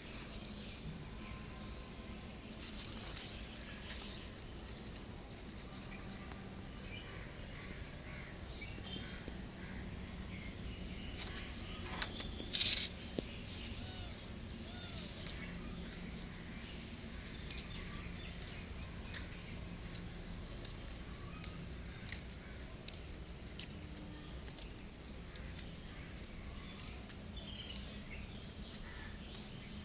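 Outdoor ambience: a steady high insect drone with scattered faint chirps, and one brief, louder sharp sound about twelve seconds in.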